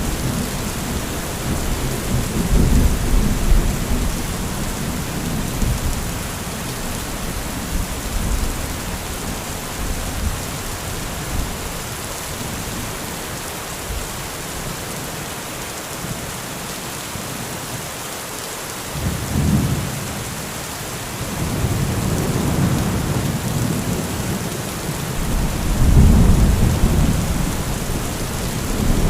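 Steady heavy rain with rolls of thunder: a rumble fading at the start, a short one about two-thirds of the way in, and a longer, louder roll near the end.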